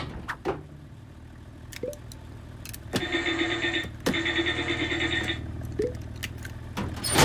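Cartoon car engine idling with a steady low hum, with small clicks. A pulsing tone runs for about two seconds in the middle, and there is a loud burst near the end.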